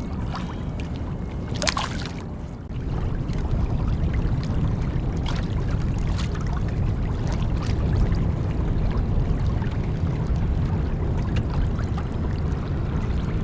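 Water moving against a kayak's hull with wind on the microphone, a steady low rumble that gets louder about three seconds in, with a few light clicks.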